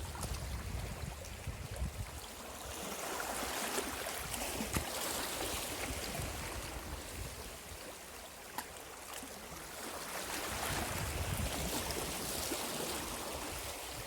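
Sea waves washing over a rocky shore: the rush of water swells twice and then drains back, with small ticks of water among the rocks.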